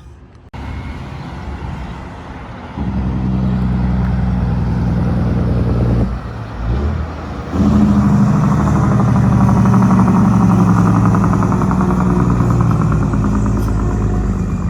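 Heavy truck's engine running under load close by, with a brief drop around six seconds in, as when shifting gear, before it pulls on louder.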